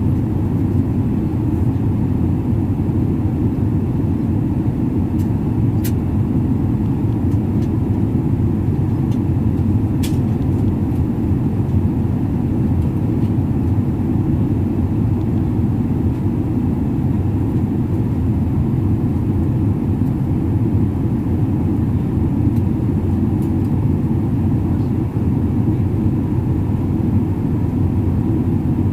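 Steady low rumble of an airliner in flight, heard inside the passenger cabin: engine and airflow noise, with a few faint ticks.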